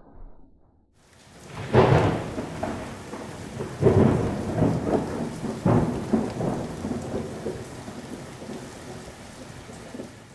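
Rain falling steadily with rolls of thunder. The heaviest rumbles come about two, four and six seconds in, then ease off toward the end.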